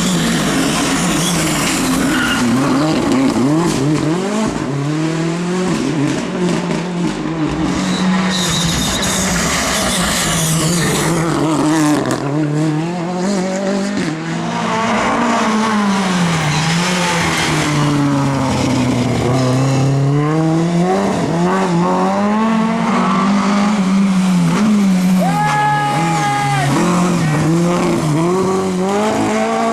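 Rally cars driven flat out on a gravel or tarmac special stage, engines revving hard and dropping through gear changes over and over, with a short tyre squeal near the end.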